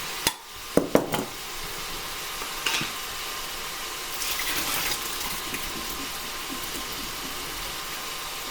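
Meat in a soup pot sizzling steadily, with a few sharp clinks of glass or metal in the first second or so. A louder splashing stretch about four to five seconds in, as a quart jar of home-canned green beans is poured into the pot.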